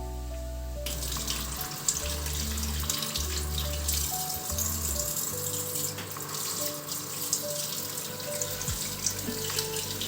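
Water running steadily, starting about a second in, with small splashy clicks, over soft background music with a low bass line.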